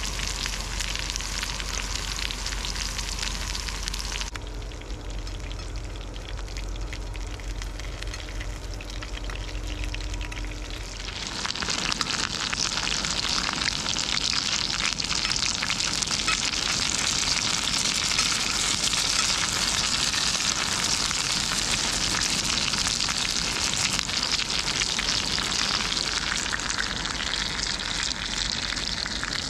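Food frying over a campfire: a steady, dense sizzle. The sound changes abruptly about four seconds in and again about eleven seconds in, after which it is louder and brighter.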